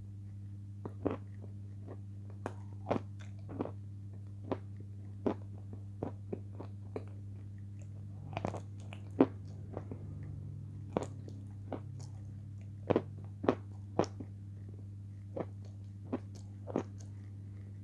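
Close-miked chewing of potato chips and cream: irregular sharp clicks, crunches and mouth smacks, one to two a second, over a steady low hum.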